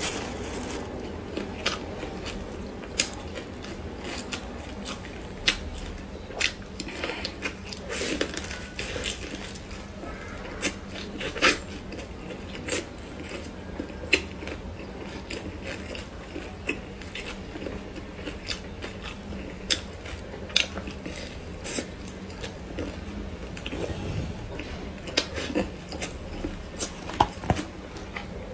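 Close-up eating sounds: chewing and tearing a thin, soft flatbread, with sharp wet mouth clicks and smacks at irregular intervals.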